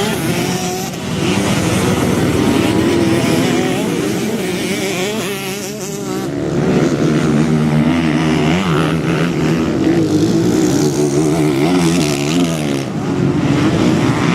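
Motocross motorcycle engine running hard, its pitch repeatedly rising and falling as it is revved and backed off. The loudness dips briefly about a second in and again around five to six seconds in.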